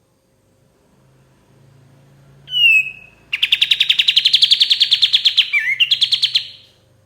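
Kapas tembak songbird singing: a single whistled note that slides down, then a long, fast, even trill of repeated notes lasting about three seconds, broken briefly by a dipping slur near the end.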